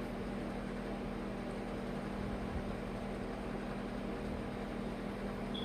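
Steady low hum with a faint even hiss: constant room background noise from a machine or electrical source, with no distinct events.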